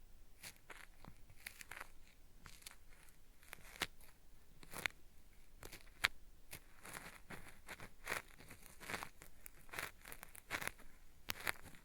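Cotton swab scraped against the ear of a binaural microphone: a gritty, peeling-style ear-cleaning sound of irregular short crackly scratches, growing denser and louder about halfway through.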